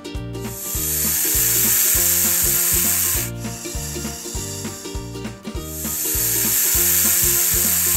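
Snake hissing: two long hisses, the first about three seconds, the second starting about halfway through, over background music with a steady beat.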